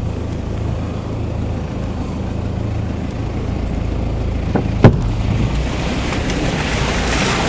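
A vehicle driving: a steady low engine drone with road noise that grows louder toward the end. A single sharp knock about five seconds in.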